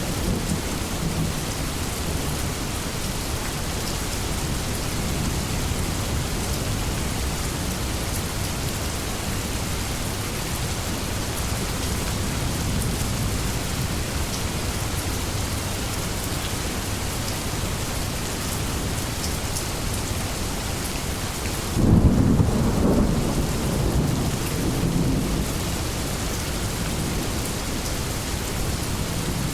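Steady heavy rain falling on leaves, with a sudden loud crack and rumble of thunder about 22 seconds in that dies away over the next few seconds.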